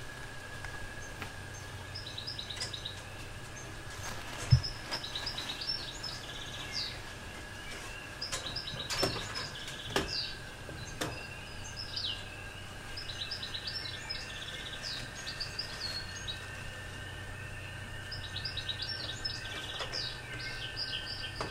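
Small birds chirping in quick repeated phrases, over a steady faint high tone and a low hum. A single sharp knock about four and a half seconds in.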